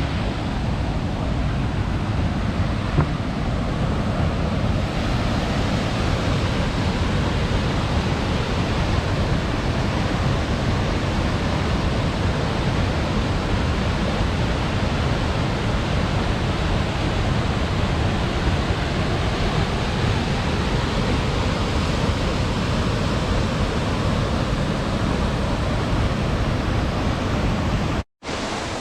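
Waterfall: water falling and splashing in a loud, steady rush, heavy in the low range. It breaks off for a moment near the end.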